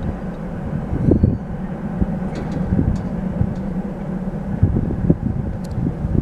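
Low, steady rumble of a departing freight train, with gusts of wind buffeting the microphone.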